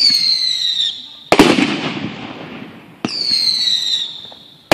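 Fireworks going off: a shrill whistle that falls slightly in pitch for about a second, then a sharp loud bang, then a second falling whistle of about a second and a half, with another bang right at the end.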